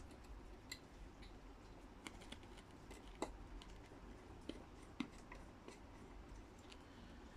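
Faint, irregular clicks and light taps of small parts and tools being handled while the steam iron's thermostat contact is refitted.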